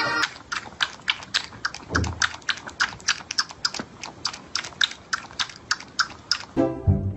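A pet crunching hard food, a quick even run of crisp chews at about four a second. Music comes in near the end.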